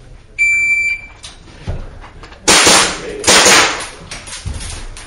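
Electronic shot timer gives a single high start beep; about two seconds later two loud pistol shots ring out, under a second apart, with a heavy echo.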